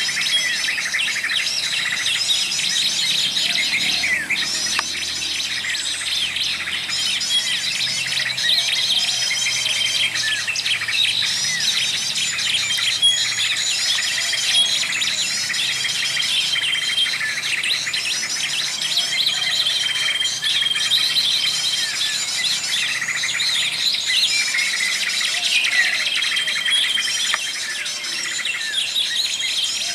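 A dense chorus of small songbirds chirping and twittering, with a short, flat whistled note repeated every second or two.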